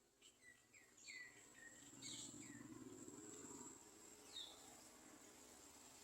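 Garden sunbird chirping faintly: a run of short, high, curving chirps in the first few seconds and one more about four and a half seconds in. A steady thin insect-like whine runs beneath them.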